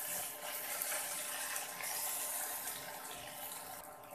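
Ground nut paste sizzling as it fries in oil in a nonstick wok, stirred with a wooden spatula. The sizzle is a steady hiss that slowly fades and thins out near the end.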